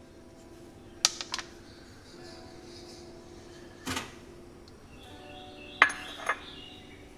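Sharp clinks and knocks of kitchenware being handled: two quick ones about a second in, one in the middle, and two more near the end, over soft background music.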